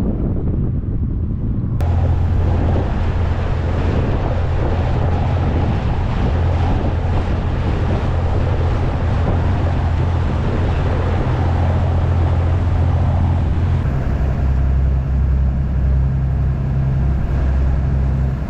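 Engine of a lake passenger boat running steadily under way, a low hum under a rush of water and wind noise on the microphone. The hum shifts to a lower note about fourteen seconds in.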